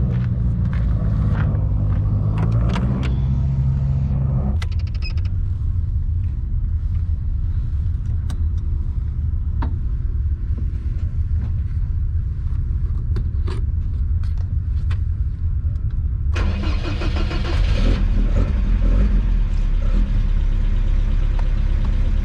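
Moskvich-408's four-cylinder engine running, a steady engine sound whose character changes abruptly about four and a half seconds in and again about sixteen seconds in, as the shots cut.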